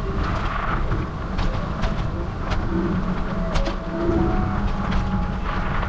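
Steady wind and road rumble from riding a bicycle along a road, with scattered clicks and rattles as the bike goes over bumps.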